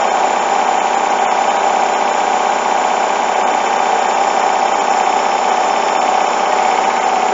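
Hoover washing machine spinning a load of bedding, a steady mechanical drone with vibration. The load is very unbalanced, holding the drum back as it tries to build up to its 1400 rpm final spin.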